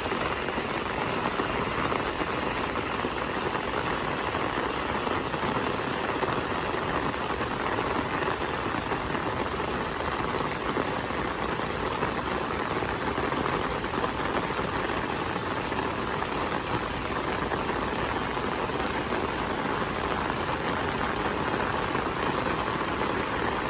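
Steady rain falling on garden plants, an even, continuous hiss with no letup.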